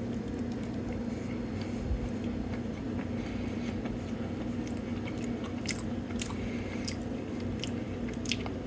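A person chewing a soft, chewy cookie, with a few small mouth clicks scattered through, over a steady low hum.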